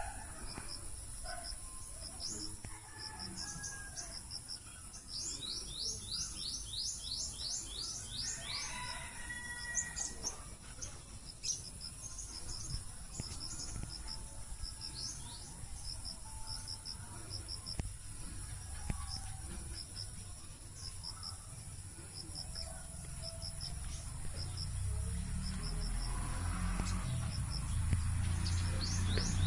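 Birds chirping in short repeated notes, with a fast run of chirps about five seconds in, over a steady high-pitched insect drone. A low rumble builds over the last few seconds.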